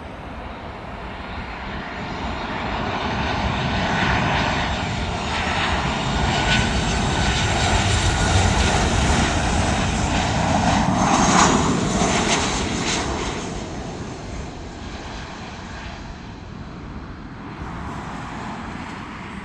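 Airplane flying over, its engine noise growing louder to a peak about eleven seconds in, then fading away.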